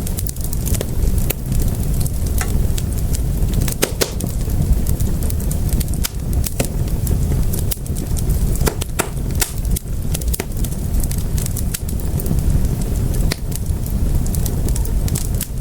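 Wood fire in a fireplace crackling, with sharp irregular pops and snaps, several a second and a few louder ones, over a steady low noise of the flames.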